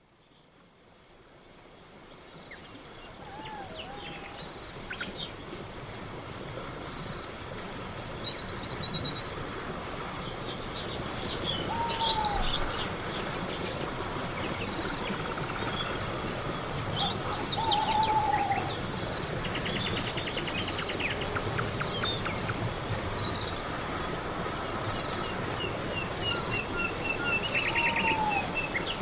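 Night forest ambience: crickets chirping steadily, a continuous high trill with an even rapid pulsing above it, with a few short whistled calls and chirps scattered through. Fades in over the first few seconds.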